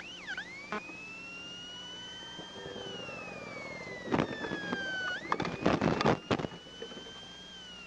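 An emergency vehicle siren: a few quick yelps, then a slow wail that rises and falls, twice. A cluster of sharp knocks comes about four to six and a half seconds in.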